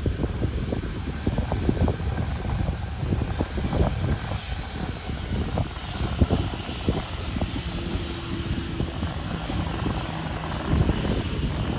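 Departing airliner's engines running at take-off power, a steady rushing roar, with wind gusting and buffeting the microphone throughout.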